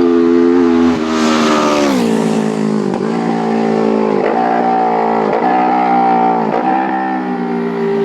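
Road-racing motorcycle at full throttle going past close by, its engine note falling as it passes, then shifting up through the gears with the pitch dipping at each change about once a second.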